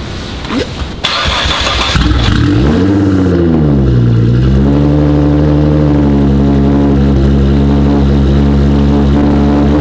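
Cold start of a Nissan GT-R R35's twin-turbo V6. The starter cranks for about a second, the engine catches, its revs flare up and drop back, and it then settles into a steady idle.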